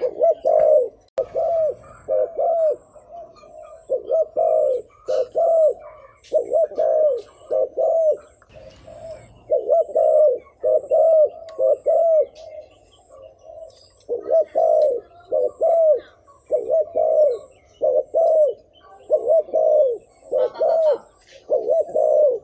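Spotted dove giving its rapid 'gù' bowing coo: short arched notes, about two a second, in quick pairs and triplets with a brief pause a little past halfway. This is the excited cooing that decoy birds use to provoke wild male doves.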